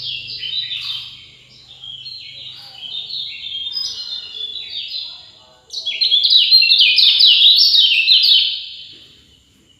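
Songbird singing a fast, unbroken run of short, quickly repeated descending notes, growing much louder about six seconds in and fading away near the end.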